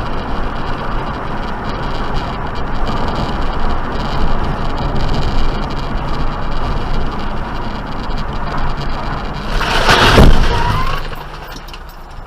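Steady road noise from a car driving, with a loud, harsh burst of noise lasting about a second near the end.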